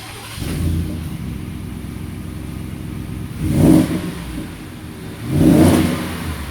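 2019 Ford F-150's 5.0 L V8 idling through a Magnaflow cat-back exhaust and muffler, revved briefly twice about two seconds apart.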